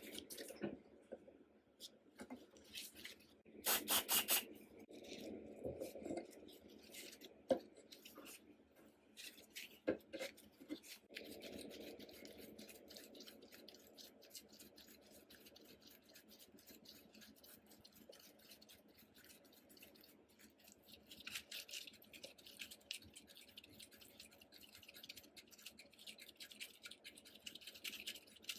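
Small hand tools working on metal parts: light scraping, rubbing and brushing with occasional sharp clicks and knocks. A louder scrape comes about four seconds in, and a steady hissing, brushing sound starts near the end.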